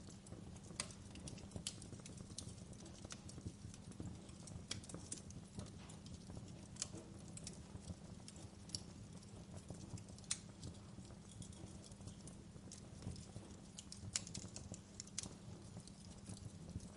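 Wood fire in a fireplace crackling softly: irregular sharp snaps and pops, a few a second, over a steady low rumble.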